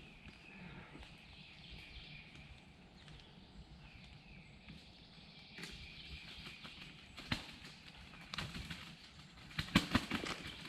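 Quiet woodland ambience with faint birdsong, then scattered crunching steps and rustles in dry leaf litter, more frequent near the end.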